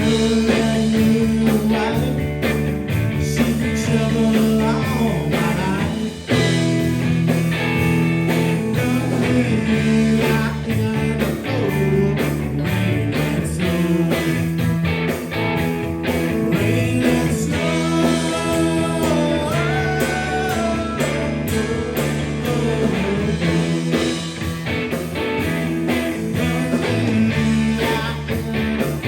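A live blues-rock band playing, with guitar lines that bend in pitch over bass and drums.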